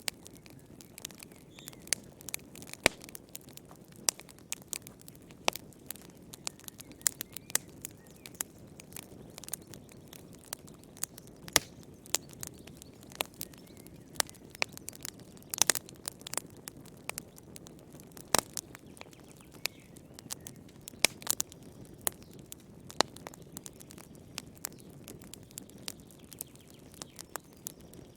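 Wood fire crackling in a fireplace: irregular sharp pops and snaps, several a second at times, over a soft low rumble of the flames.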